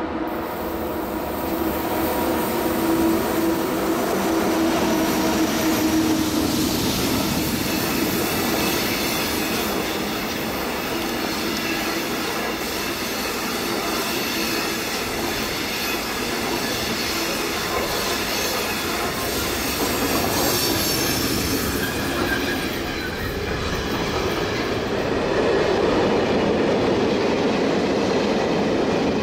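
Train running along the Semmering mountain railway: a continuous, steady rumble of wheels on the rails.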